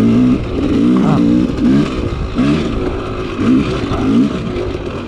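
Dirt bike engine running with the throttle blipped, its pitch rising and falling over and over.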